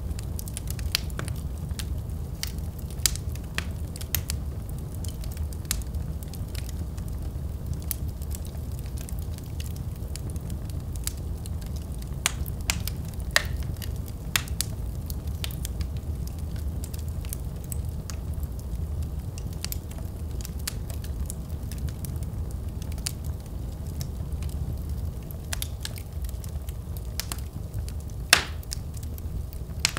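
Fire burning in a fireplace: a steady low rumble from the flames with frequent sharp crackles and pops scattered throughout, one louder pop near the end.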